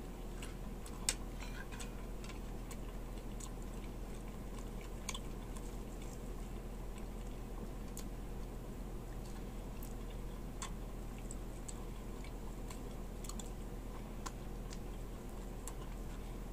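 A man chewing tender fried beef shank close to the microphone, with scattered small wet clicks and smacks, one louder about a second in, over a steady low hum.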